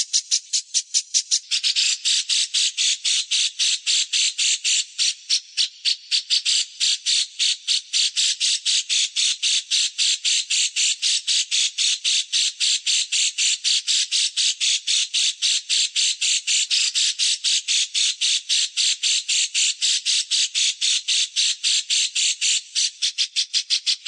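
A songbird call: a fast, even series of harsh chip notes, about five a second, without a break. About a second and a half in, the notes get louder and fuller.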